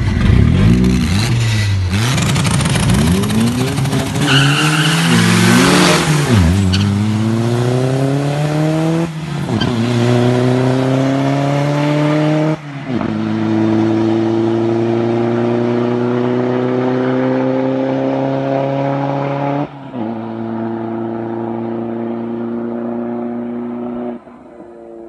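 Car engine accelerating hard through the gears, revs climbing in each gear and dropping at four upshifts. Tyres squeal during the launch near the start.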